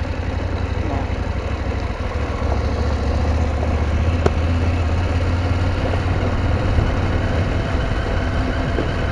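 KTM 790's twin-cylinder engine running steadily under way, a continuous low rumble that swells a little in the middle. There is one sharp click about four seconds in.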